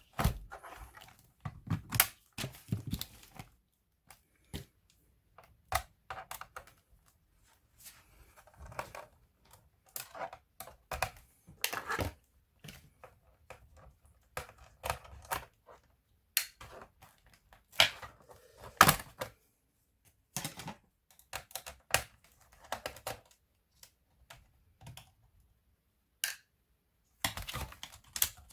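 Irregular clicks, knocks and short scrapes of a plastic laptop being handled and taken apart by hand, with a few sharper knocks among them.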